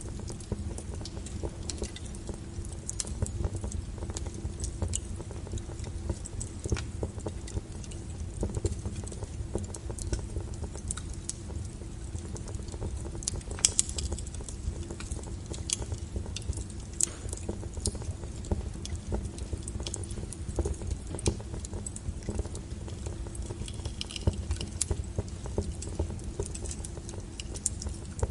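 Wood fire burning: a steady low rumble of flames with frequent sharp crackles and pops of the burning firewood, the loudest pop about halfway through.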